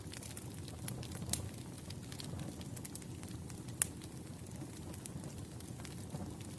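Firewood burning in a campfire: a steady low rush of flame with scattered sharp crackles and pops, the loudest a little under four seconds in.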